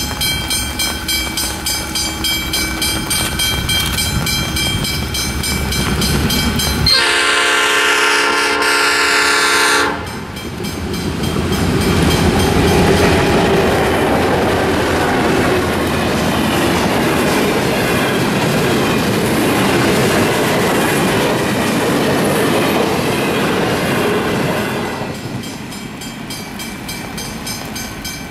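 Diesel locomotives 4204 and B65 approaching with a rhythmic engine throb, then a multi-note locomotive horn sounded for about three seconds, followed by the train passing with a loud rumble of wheels on rail that fades near the end.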